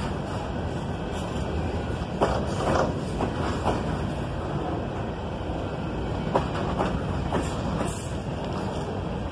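Coal train rolling past: a steady rail rumble with sharp wheel clicks and clanks every second or so as the cars go over the track.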